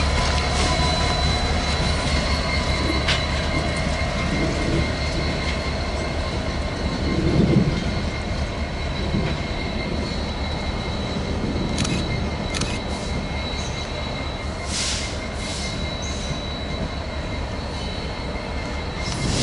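Train rolling past with a low rumble and a steady high-pitched wheel squeal, the sound easing off gradually. A few sharp clicks are heard about two-thirds of the way through.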